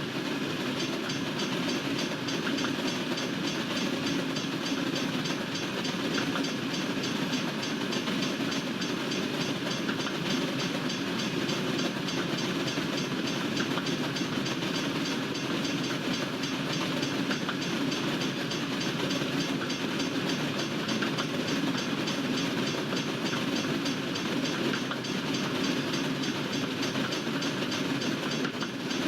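Norfolk Southern freight train's cars rolling steadily past, with continuous rumble and wheel noise on the rails.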